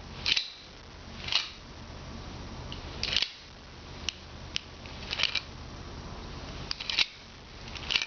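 Small doors of a motorless mock-up forearm rocket launcher clicking and clacking open and shut as the arm is extended and retracted, about eight short sharp clicks at uneven intervals.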